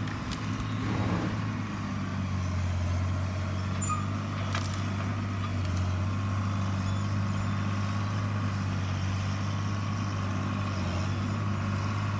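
Avant compact loader's engine running at a steady speed with an even hum.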